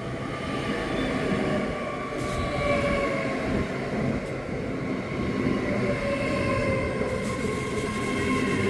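Electric train moving through the station, with a rumble and several whining tones that fall slowly in pitch as it slows.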